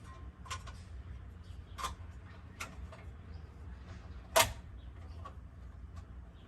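Light clicks and taps of plastic parts and fasteners being handled while a washing machine is reassembled, with one sharper click about four seconds in.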